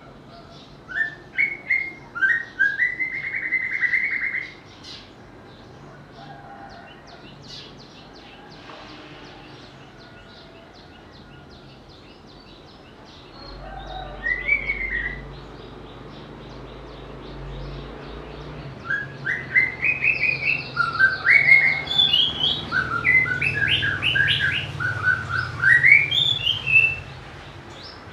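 White-rumped shama singing: a burst of whistled phrases in the first few seconds, a short phrase midway, and a long run of varied, rapidly changing phrases over the last ten seconds, with a low rumble underneath in the second half.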